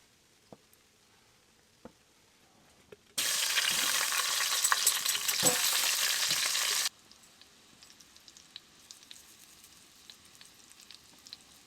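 A burger sizzling in a frying pan: loud hiss dense with small pops that cuts in a few seconds in and cuts off sharply about four seconds later. Faint scattered ticks and crackles come before and after it.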